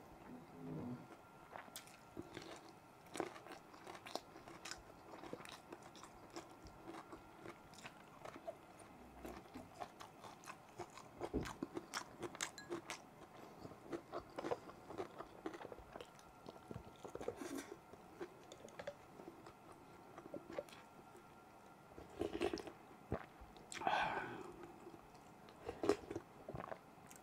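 Close-miked eating sounds of a person chewing tender beef bulalo (beef shank soup) with rice: wet chewing, lip smacks and soft crunches in quick irregular clicks. Near the end she sips broth from a wooden spoon.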